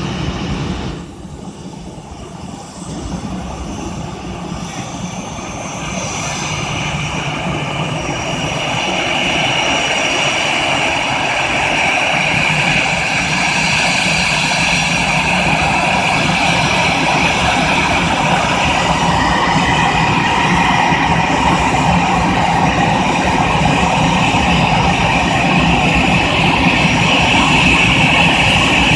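Aircraft engines running as a plane taxis in to its parking stand: a steady rushing noise with a high whine over it. It grows louder over the first ten seconds or so, then holds steady.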